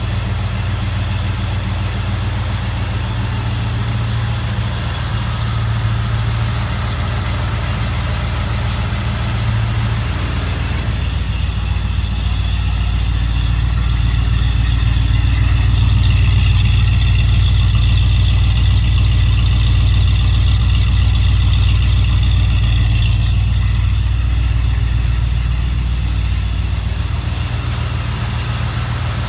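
1970 Plymouth Duster's 340 small-block V8 idling on a cold start after two weeks of sitting, running smoothly. It grows somewhat louder about a third of the way in and settles back near the end.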